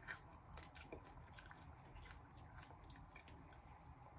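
Faint chewing: scattered small clicks and smacks of a mouth eating.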